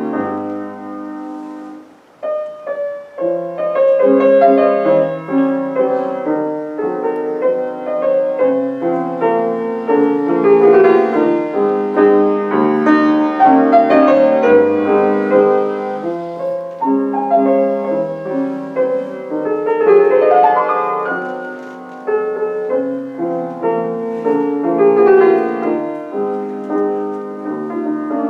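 Piano playing a classical-style piece, with a brief pause about two seconds in before the music carries on.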